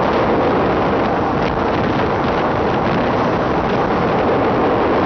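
Steady noise of a moving passenger train heard from an open window or door of the carriage, with wind rushing over the microphone.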